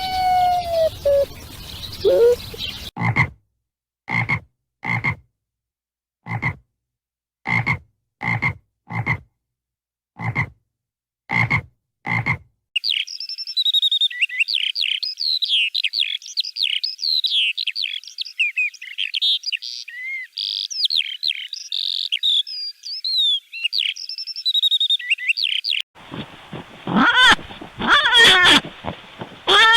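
A frog croaking about ten times, roughly once a second, each croak short and separate. This is followed by a long, dense chorus of high chirps and twitters, and near the end a different, louder animal call begins.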